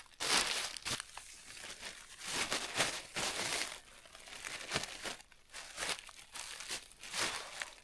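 Irregular crinkling and rustling, like crumpled material being handled, in uneven bursts.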